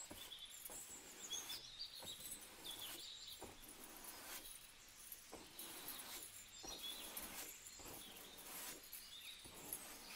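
Faint chirping of small birds, short high calls repeating throughout, with scattered soft clicks and rustles.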